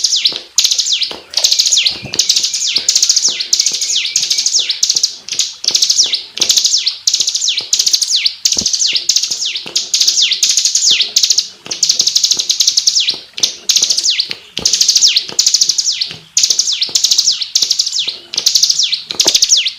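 Bar-winged prinia (ciblek) singing a loud, dense trill of rapid, high, down-slurred notes. It runs almost without a break, with only short pauses every couple of seconds.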